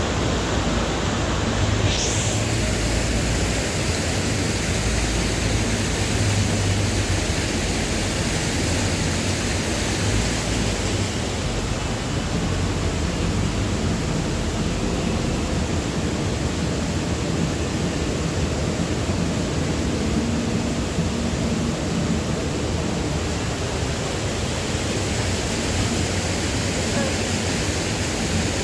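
Steady rushing of a waterfall, an even roar of falling water that holds constant throughout, with a brief high rising squeak about two seconds in.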